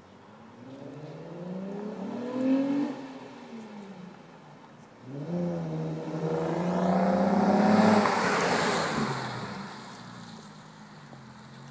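2008 Infiniti M35x with a Stillen aftermarket exhaust and an Injen cold air intake, its V6 exhaust note rising and falling in a first rev. About five seconds in, a sudden, harder rev is held higher and grows louder for a few seconds, then drops back to a low steady idle.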